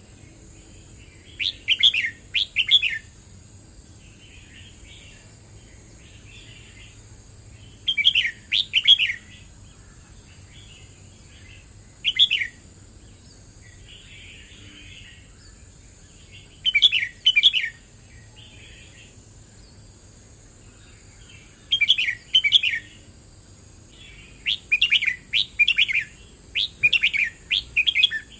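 Red-whiskered bulbul singing: short, bright phrases of quick notes about every four to five seconds, with several phrases in quick succession near the end, and softer chirping between the phrases.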